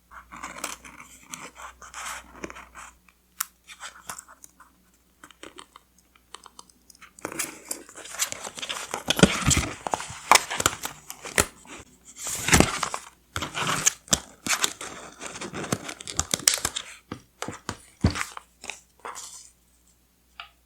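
Paper being handled close up: rustling and crinkling with scattered sharp taps, light at first, then busy and loud through the middle before thinning out near the end.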